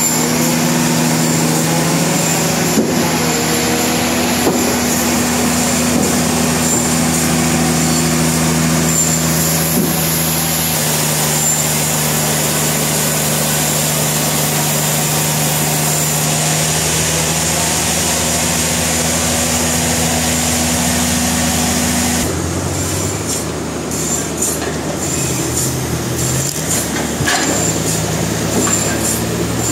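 Sawmill running: the engine and saw run steadily under load as they cut through a log. The engine note shifts in steps, then the sound drops and turns rougher about two-thirds of the way in, with a few sharp knocks near the end.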